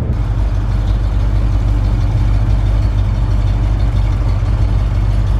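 The 1976 Cadillac Sedan DeVille's big 500 cu in V8 idling steadily through an exhaust that is too loud because a piece of it has been chopped off.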